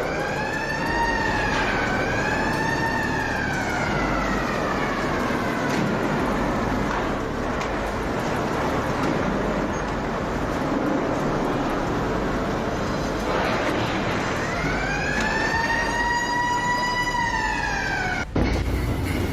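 A siren wailing in two slow rise-and-fall sweeps, over a steady rushing background noise, cut off suddenly near the end.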